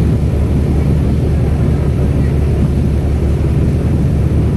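Airboat's engine and large air propeller running steadily at cruising speed, a loud, even drone.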